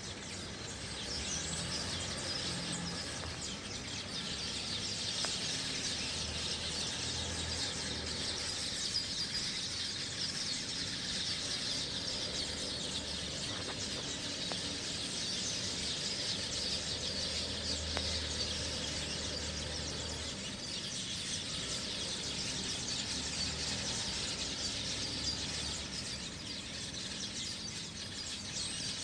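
Dense morning chorus of many birds chirping and calling at once, continuous and unbroken, over a faint low hum.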